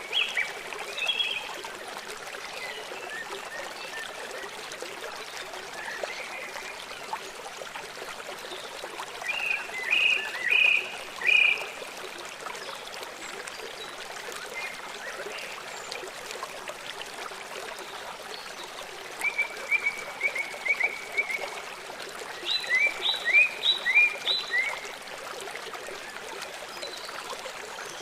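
Wild birds chirping in short phrases of a few notes, four bursts in all, one of them a quick run of repeated notes, over a steady hiss from the surroundings.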